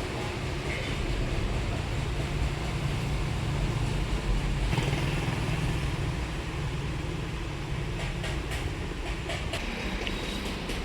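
Steady low rumble of a vehicle, with a few short clicks near the end.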